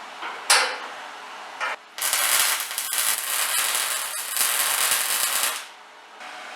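Arc welding on steel: a steel angle is being welded onto the trailer's frame rail and crossmembers. The arc crackles in two short blips, then runs in a steady crackling bead for about three and a half seconds before it stops.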